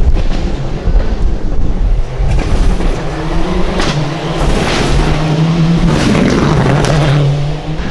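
Rally car at speed on a special stage: a low rumble at first, then a loud, steady engine note held at high revs as it passes, with a few sharp cracks in the middle.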